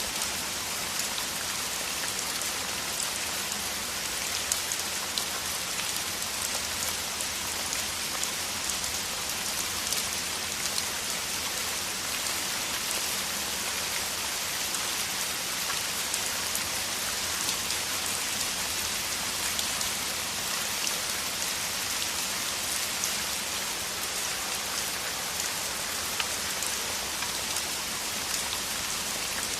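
Heavy rain falling steadily: a dense, even hiss with countless fine drop patters.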